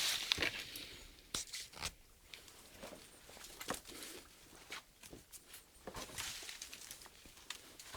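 Irregular crackling and snapping clicks, scattered at uneven intervals, with a hiss that fades away in the first second.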